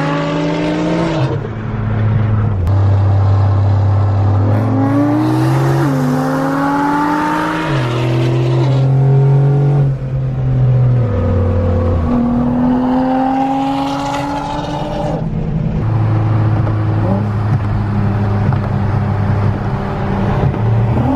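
A car engine pulling hard, climbing in pitch and dropping back a few times as it shifts up through the gears.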